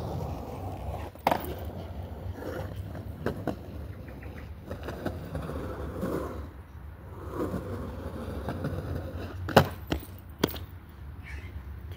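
Skateboard rolling with a steady low wheel rumble, broken by sharp clacks of the board: one about a second in, and the two loudest toward the end, about a second apart.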